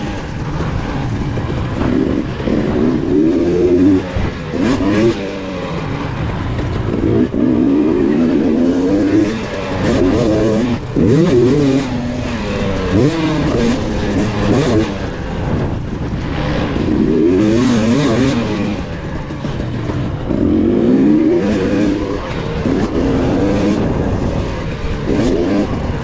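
KTM 250 XC two-stroke dirt bike engine being ridden hard, revving up and dropping back over and over as the throttle opens and closes.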